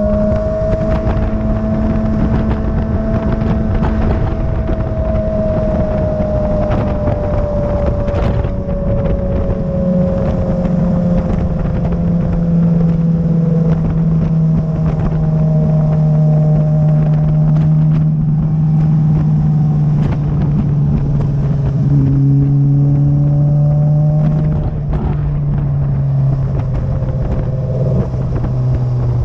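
Motorcycle engine running continuously under load, its note easing slowly lower over the stretch, with a rough rush of wind and road noise underneath.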